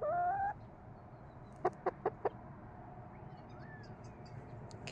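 Chicken calling: a drawn-out rising note at the start, then four quick, short clucks about two seconds in.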